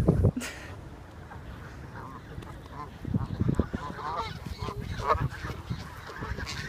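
A flock of birds calling, a run of short calls between about two and five seconds in, with low thumps underneath in the middle.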